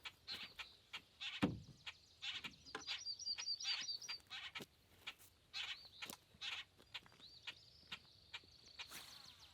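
Birds calling outdoors: many short, high chirps and a quick trill of repeated notes, with one low thump about a second and a half in.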